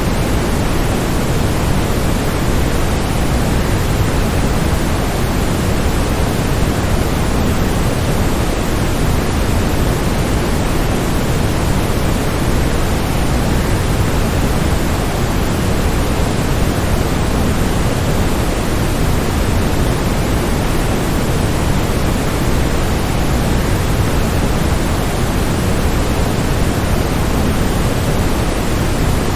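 Waterfall: a steady, even rush of falling water, fullest in the low end, with no change in level.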